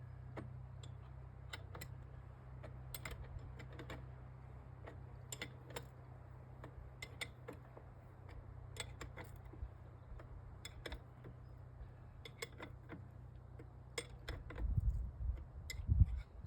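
Irregular metallic clicks and taps from hand tools working the motorcycle's front wheel axle as it is tightened, over a low steady hum. Near the end come a few heavy thumps, the loudest sounds here.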